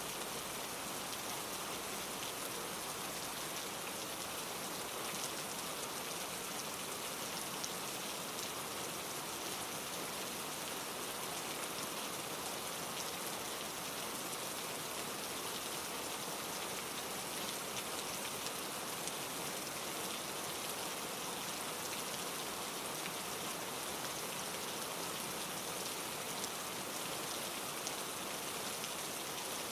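Steady, even rain: a continuous hiss with small individual drop ticks scattered through it.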